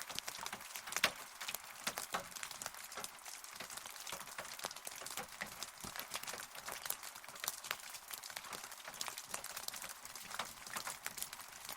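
Rain falling: a steady hiss with many separate drops ticking sharply close by.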